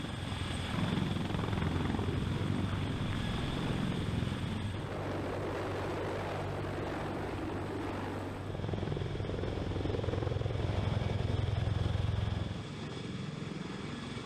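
Helicopter running: a steady rotor beat and engine rumble with a thin high turbine whine over it. It shifts in character a few times and drops in level about 12.5 seconds in.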